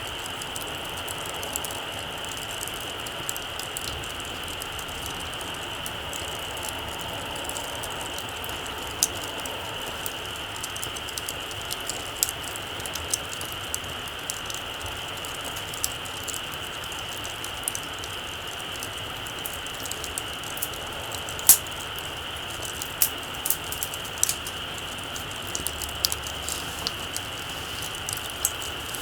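Small wood campfire crackling: sharp, irregular pops and ticks, one louder pop about two-thirds of the way through, over a steady high hiss.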